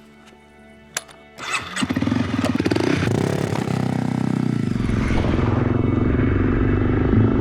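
Honda CRF250L single-cylinder motorcycle engine starting: a click about a second in, then the engine catches and runs loudly with shifting revs.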